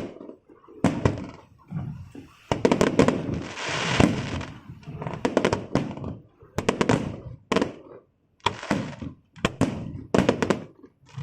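Aerial fireworks bursting in quick succession: repeated sharp bangs, some in rapid clusters, with a stretch of hissing crackle a few seconds in.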